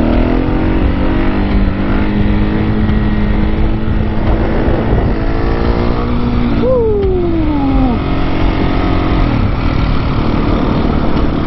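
Husqvarna 701 supermoto's single-cylinder engine running under way, revs climbing at the start, holding steady, then dropping sharply about seven seconds in. A heavy low rumble of wind on the microphone runs underneath.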